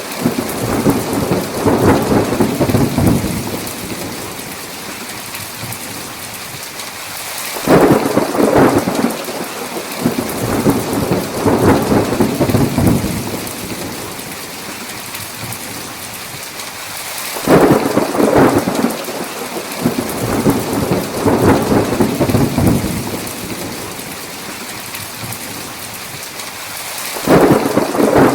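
Thunderstorm: a steady hiss of heavy rain, with thunder breaking in suddenly three times about ten seconds apart, each peal rumbling on for several seconds as the loudest sound.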